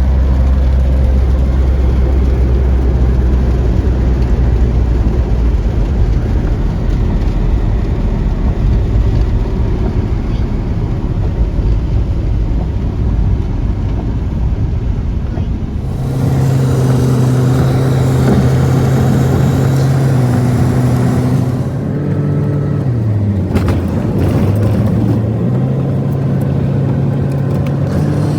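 Motor vehicle running: a heavy low rumble for about half the time, then a steady engine hum that sinks in pitch briefly near the end and climbs back, as if slowing and picking up speed again.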